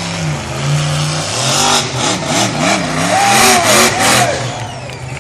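Monster truck engine revving, its pitch rising and falling several times as it accelerates toward a jump.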